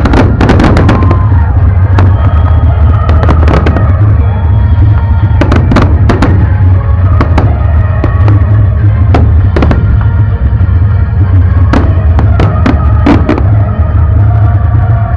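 Fireworks going off in quick clusters of sharp bangs and crackles, over loud music with a heavy bass.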